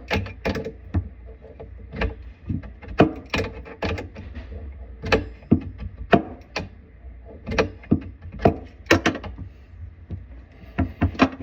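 Irregular sharp knocks and clicks of hand tools and metal fittings being worked while fitting a faucet, a few a second, over a steady low hum.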